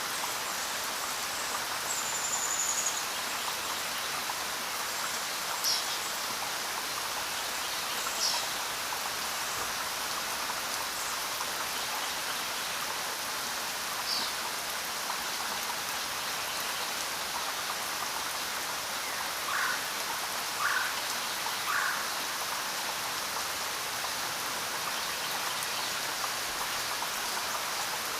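Steady rain falling, an even hiss of many drops. A few brief high chirps stand out over it, three in quick succession about twenty seconds in.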